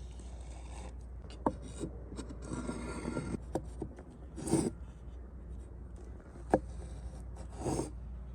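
Scraping and rubbing sounds with a few sharp knocks spread through, over a low steady hum.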